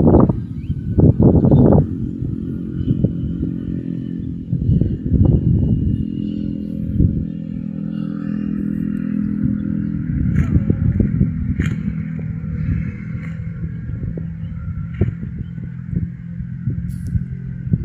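A steady, low engine hum of a vehicle running, after uneven rumbling surges in the first two seconds, with a few light clicks near the middle.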